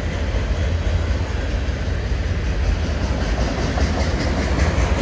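Freight train of autorack cars rolling past close by: a steady noise of steel wheels on rail, strongest in a deep rumble.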